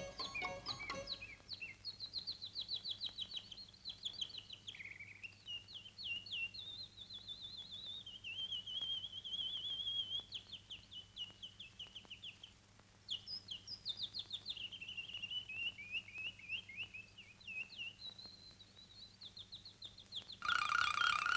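Birdsong: a single bird warbling and trilling in long rising and falling phrases, with a short pause about twelve seconds in. Music comes back near the end.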